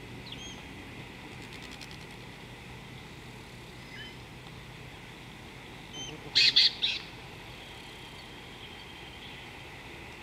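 Wild birds calling in bush: scattered short high chirps and whistles. About six seconds in come three loud, harsh notes in quick succession, the loudest sound here.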